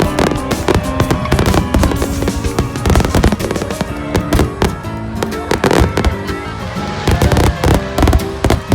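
Fireworks shells bursting in quick, irregular succession over music with sustained notes.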